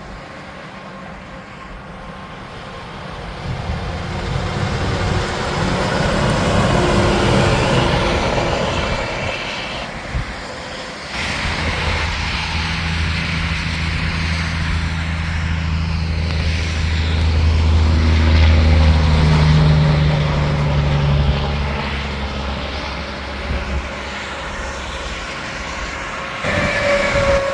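Highway traffic with semi-trucks going by: diesel engines and tyres grow louder and fade, with one passing peaking about seven seconds in and another, with a steady low engine drone, around nineteen seconds.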